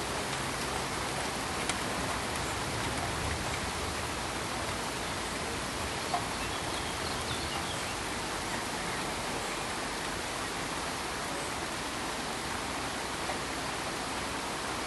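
Pink noise: a steady, even hiss with two faint ticks.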